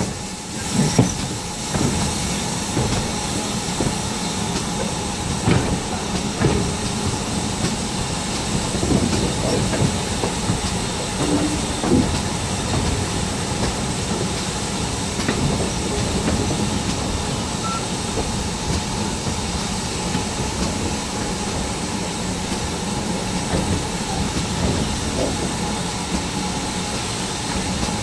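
Steam-hauled passenger carriage running along the track behind a GWR 56xx class 0-6-2 tank engine: a steady rumble and hiss of the moving train, with occasional knocks from the wheels on the rails, heard with the microphone held outside the carriage window.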